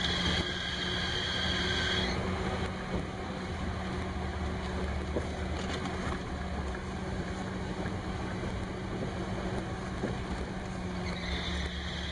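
Car engine idling with the alternator drive belt squealing: a high whistle over the steady engine sound that stops about two seconds in and starts again near the end. The squeal is the sign of a slipping, under-tensioned belt.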